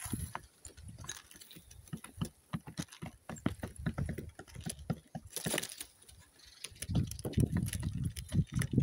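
Pigeons pecking at food on the ground: many quick, irregular taps. A low rumbling noise builds near the end.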